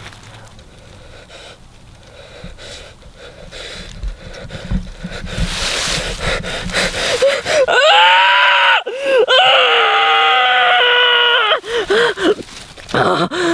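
A man's long, loud scream held for about four seconds, breaking into quick, rapid gasping breaths near the end.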